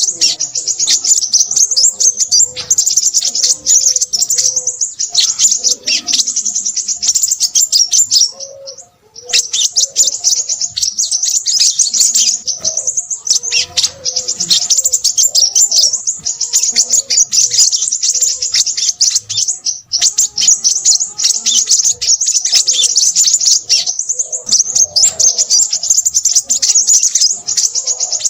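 Crimson sunbird singing busily: a dense, rapid stream of high, thin chirps and trills with hardly a pause, broken once briefly about nine seconds in.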